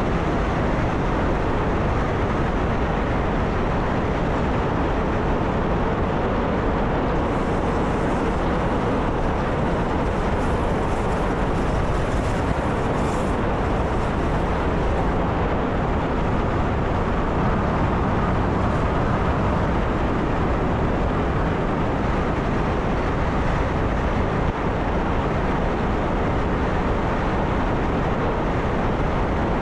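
Steady running noise of a train travelling along the track, heard from the driver's cab, an even rumble with a faint high hiss for several seconds partway through.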